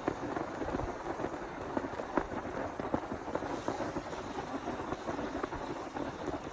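Heavy rain falling steadily, a dense patter of many drops hitting a surface.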